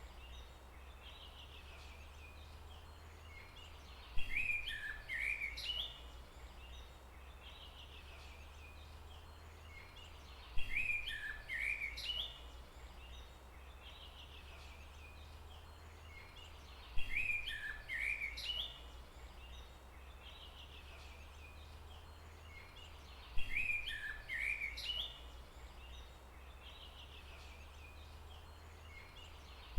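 Forest ambience: a songbird sings a short, identical phrase of chirps about every six and a half seconds, four times, over a steady low rumble.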